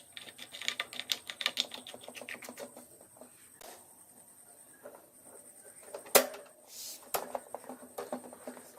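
Rapid run of light clicks and taps from hand work on small hard parts, then a single sharp knock a little after six seconds in and a few more clicks.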